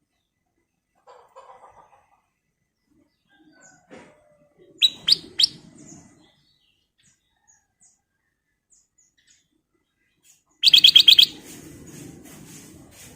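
Black-crested bulbul calling: three short high notes about five seconds in, then a quick burst of about six loud notes near the end, each with a low rustling under it.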